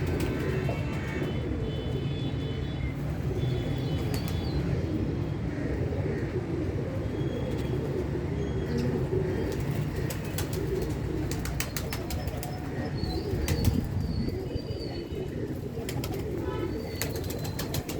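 Birds' wings flapping in a series of quick clicks, with short high chirps, over a steady low rumble.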